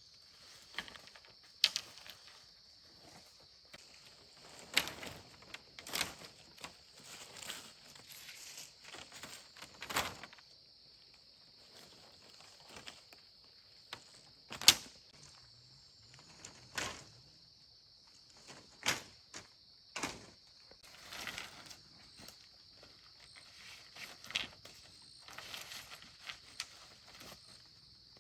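Irregular knocks, thuds and scuffs of handwork, a dozen or so spread unevenly, the loudest about a third and two thirds of the way through. Behind them runs a steady high insect drone.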